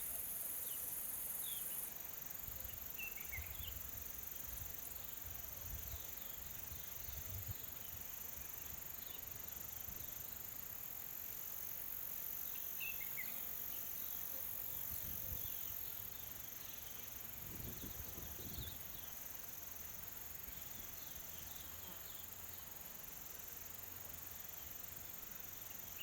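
Bush ambience: insects trill steadily and high, one in an even pulsing rhythm, with a few short bird chirps scattered through and occasional soft low rumbles.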